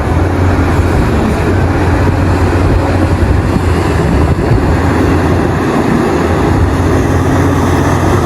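Large diesel engines of mining excavators and dump trucks running steadily under load, a continuous deep engine hum.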